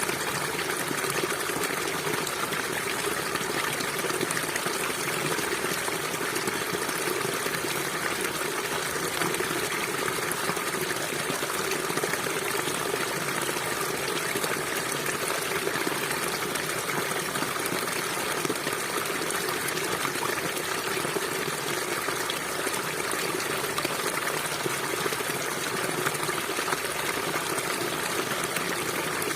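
River water flowing steadily, a constant rushing and burbling with no change in level.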